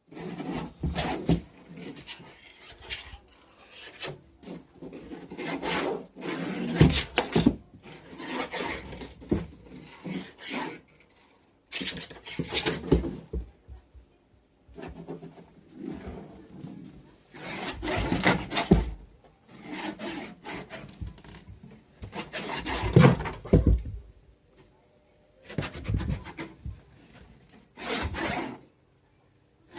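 Cat's claws scratching and scrabbling, in repeated scraping bursts of about a second each with short irregular gaps.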